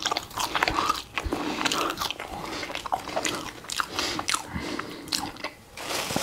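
A person chewing a mouthful of double cheeseburger close to a clip-on microphone, with irregular mouth clicks and smacks.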